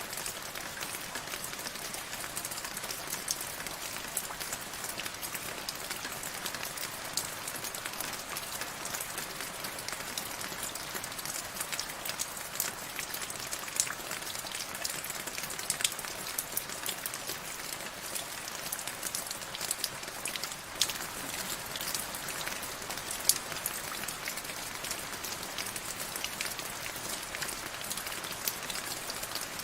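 Steady rain falling, an even hiss with many sharp drops ticking on a hard surface at irregular moments.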